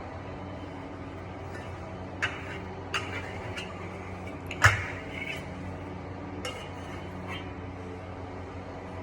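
Scattered light clicks and clinks of hard objects knocking together, about seven of them, the loudest nearly five seconds in, over a steady low hum.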